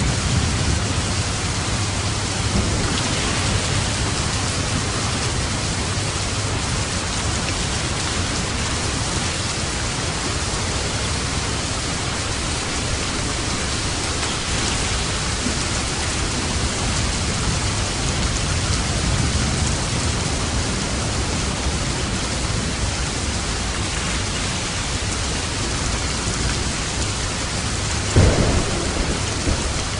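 Steady heavy rain falling, with low rolls of thunder rumbling underneath and a louder thunder crack near the end.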